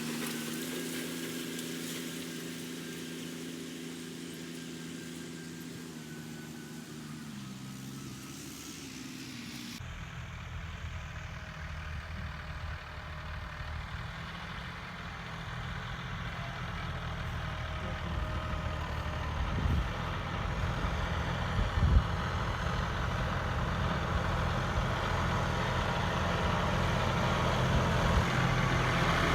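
John Deere 5210 tractor's diesel engine running steadily under heavy load while pulling an 18-disc harrow. Its tone changes abruptly about a third of the way through, a few sharp knocks come a little past the middle, and it grows louder toward the end.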